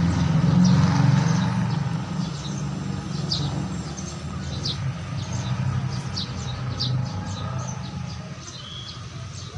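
Birds chirping in short, scattered notes over a steady low rumble that is loudest for the first couple of seconds and then fades.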